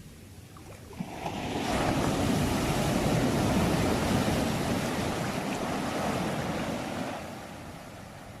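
A sea wave breaking and washing up the shore: a rush that swells about a second in, holds for several seconds, and dies away near the end.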